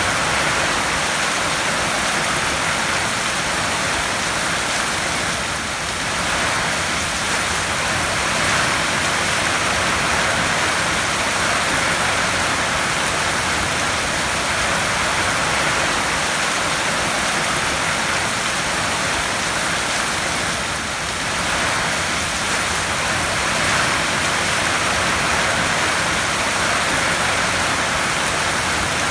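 Heavy rain drumming on a tin roof: a steady, dense hiss that eases slightly twice.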